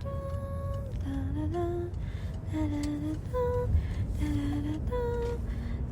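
A slow hummed melody: single held notes, each about half a second long, stepping up and down in pitch, over a steady low rumble.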